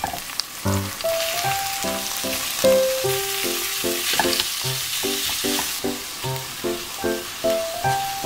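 Ground pork sizzling in hot oil with sliced green onions as it is stirred and broken apart with a spatula in a frying pan; the sizzle is loudest from about half a second in until about six seconds in. Light background music with plucked notes plays throughout.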